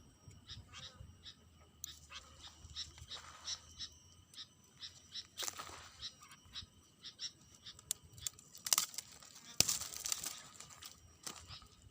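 A bird chirping: short high notes repeated about three times a second, over a faint steady high whine, with a few brief rustling bursts partway through.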